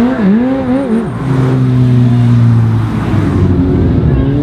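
Supercar engine revving: a few quick blips in the first second, then a steady held note, then the pitch climbing near the end as it accelerates.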